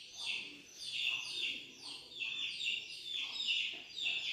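A bird chirping over and over, short falling chirps at a steady pace of about three a second.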